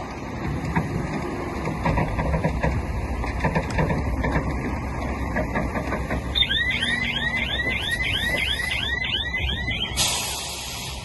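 Heavy earthmoving machinery running with a low engine rumble and some metal clanks. About two-thirds of the way through, a rapid repeating squeal rises and falls about three times a second for a few seconds. It is followed by a short hiss near the end.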